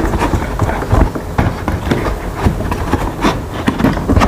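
Irregular knocks, taps and rustling as a cardboard shipping box and a hard plastic case are handled and shifted about.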